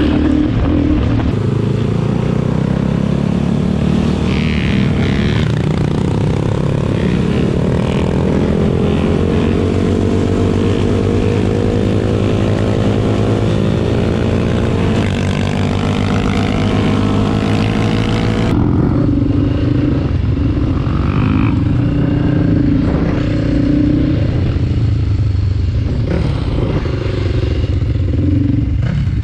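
Suzuki DRZ400SM supermoto's single-cylinder engine under way, its pitch climbing through each gear and dropping back at the shifts, over a steady rush of wind noise.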